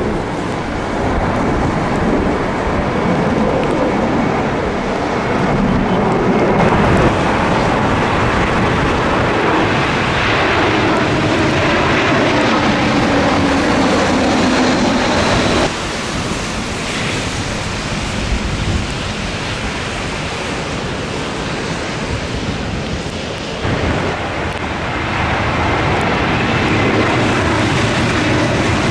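Jet airliner engines passing low on approach to land, with a low tone that falls in pitch midway, mixed with gusty wind on the microphone. The sound changes abruptly twice.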